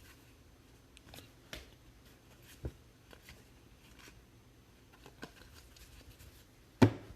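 Baseball trading cards being handled and flipped through one by one, making scattered light clicks and slides. One sharper, louder knock comes near the end.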